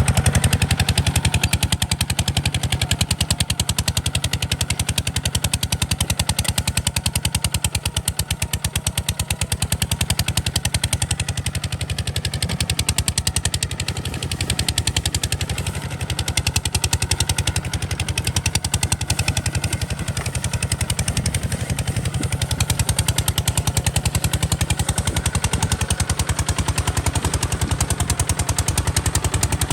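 Kubota RT 140 DI single-cylinder diesel engine of a walking tractor running steadily, its exhaust giving rapid, even, popping beats.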